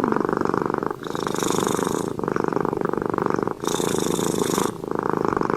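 A cat purring steadily and close up. The purr swells and dips with each breath in and out, roughly once a second.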